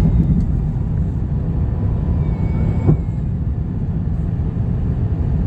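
Airbus A350-1000 airliner making a steady low rumble, with one short knock about three seconds in.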